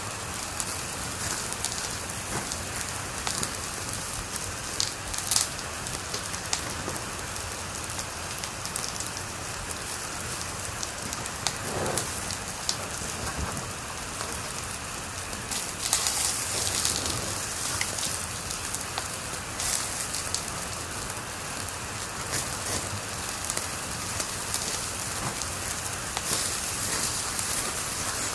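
Wood fire crackling in a fireplace: a steady dense crackle with a few louder pops, about five seconds in and again around sixteen seconds.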